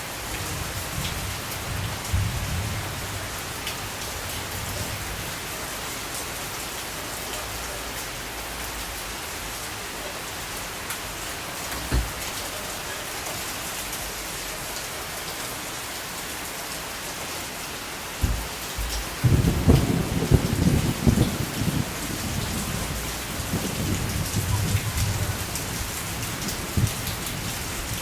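Steady rain falling, with thunder rumbling: a low roll at the start, a louder rumble about two-thirds of the way in, and another shortly after.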